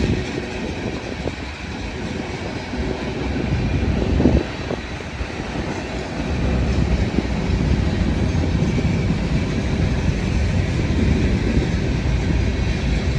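A train running past on the track: a steady rumble, with a brief louder moment about four seconds in, and louder again from about six seconds in.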